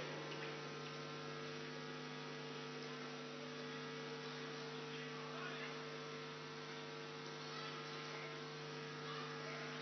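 Steady electrical mains hum with a constant hiss, a few unchanging tones with nothing else prominent.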